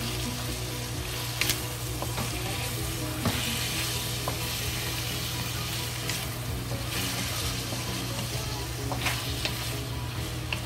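Chicken pieces and mushrooms sizzling steadily in oil and dark soy sauce in a wok while a wooden spatula stirs them, with a few sharp knocks of the spatula against the pan.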